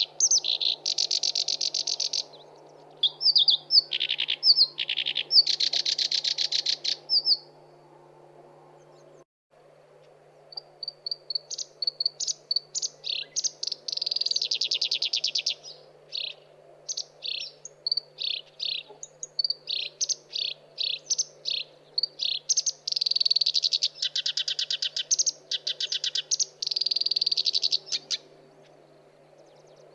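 Black-browed reed warbler singing: phrases of rapid repeated high notes and buzzy trills, broken by short pauses and one longer pause about a third of the way in. A faint steady low hum runs underneath.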